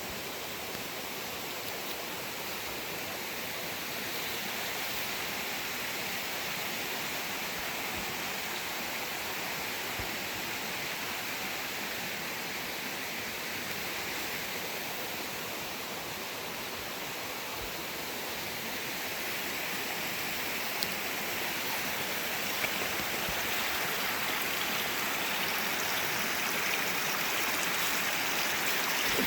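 Creek water rushing and splashing over rocks, a steady noise that grows a little louder near the end.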